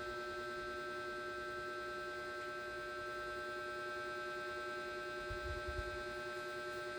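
Steady electrical hum made of several fixed tones, with a few soft low bumps about five seconds in.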